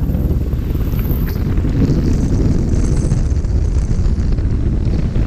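Wind rushing over the microphone while riding a small dual-sport motorcycle, a steady low rumble with the engine running underneath.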